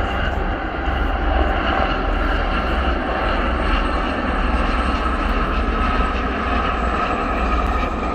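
Aérospatiale Gazelle helicopter flying past, a steady loud rotor and turbine noise with a thin high whine over a deep low rumble.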